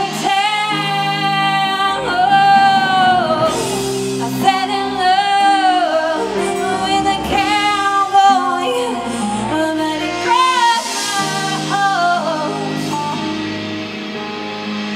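A singer's voice holding long notes with vibrato over instrumental accompaniment. The voice stops about two seconds before the end, leaving the accompaniment.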